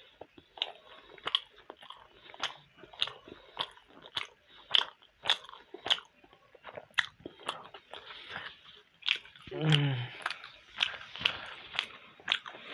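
Close-up wet chewing of momo dumplings, with smacking chews about two a second. A short low vocal sound falls in pitch about ten seconds in.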